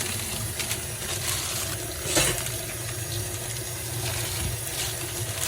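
Kitchen tap running into a sink: a steady splashing hiss, with a low steady hum underneath and a single knock about two seconds in.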